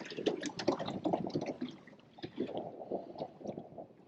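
Shallow water sloshing and gurgling in uneven small splashes and swells.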